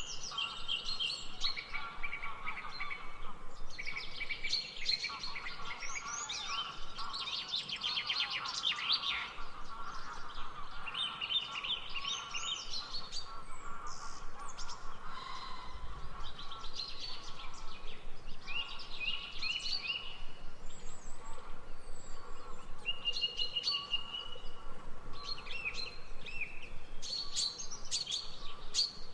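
Several songbirds singing and chirping at once, with rapid repeated chirps and short trills overlapping throughout, over a steady lower background hum of more birds or insects.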